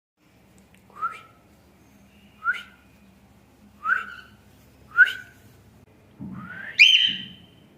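Cockatiel whistling: four short upward-sweeping chirps about a second apart, then a longer, louder rising whistle near the end.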